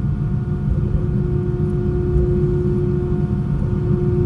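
Cabin noise inside an Airbus A320 taxiing after landing: a steady low rumble with a constant hum.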